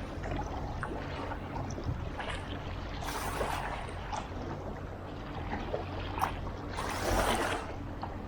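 Kayak paddle blades dipping and splashing in the water, with two louder swishes of water about three and seven seconds in and a sharp knock a little before the second. A steady low hum runs underneath.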